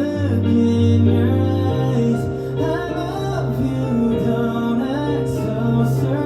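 Slow pop ballad performed live: a male voice sings held, gliding lines over keyboard and a sustained bass.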